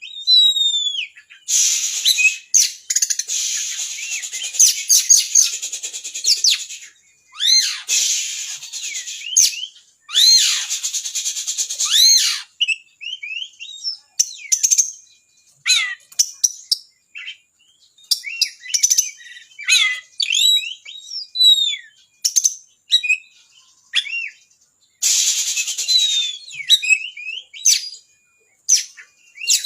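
Oriental magpie-robin singing a loud, varied song. Several bursts of fast, harsh chattering alternate with quick, clear whistled notes and glides, and the song is full of mimicked phrases.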